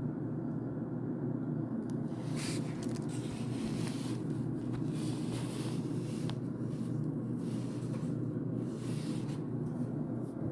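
Gas water heater running with a steady low rumble, with patches of higher hiss coming and going from about two seconds in.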